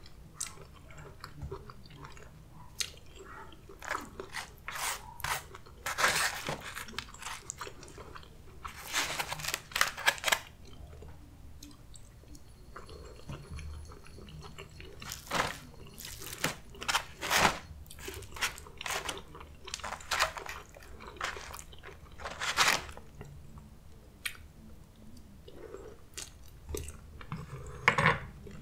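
Close-miked eating sounds: irregular bouts of chewing and crunchy bites of Mexican food such as enchiladas and rice, with quieter pauses between bouts.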